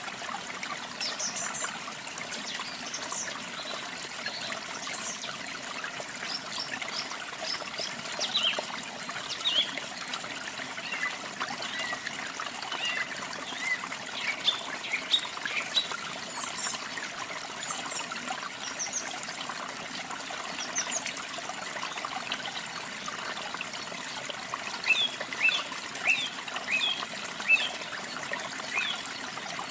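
Steady trickling of running water, with small birds chirping over it in short, quick notes that come in scattered bursts and grow busier near the end.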